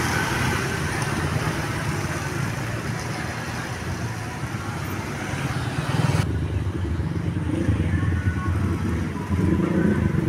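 Road traffic passing: a steady low engine rumble from passing vehicles, with the higher hiss of tyres and wind cutting off suddenly about six seconds in.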